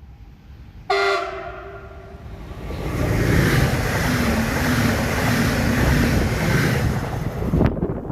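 Train horn blasts once about a second in and fades, then a train passes at speed, its loud rushing rail noise cutting off suddenly near the end.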